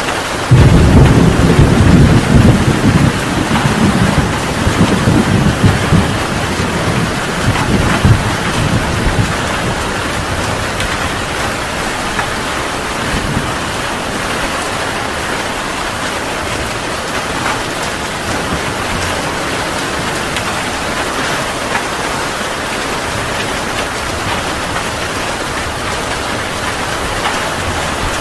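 Heavy rain falling steadily, with a thunderclap breaking about half a second in and rumbling for about eight seconds before dying away under the rain.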